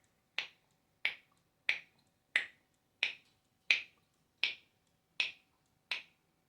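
Parrot making kissing smacks: nine short, sharp smacks at an even pace, about three every two seconds.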